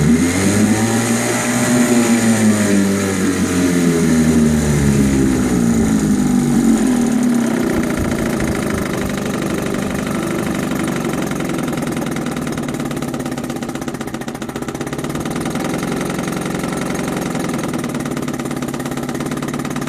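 1967 Johnson 3 hp folding outboard's two-cylinder two-stroke engine being revved up and back down twice over the first eight seconds, then settling to a steady idle. It answers the throttle cleanly: a freshly tuned motor running well.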